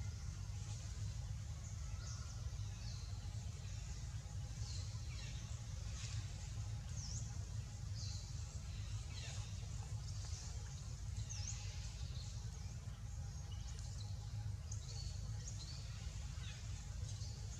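Birds chirping in short, high calls, many sweeping quickly downward, repeated every second or so over a steady low hum.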